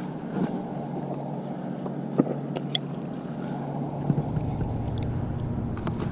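A steady low drone like a distant motor, under wind and water noise, with a few light clicks and knocks about two to three seconds in.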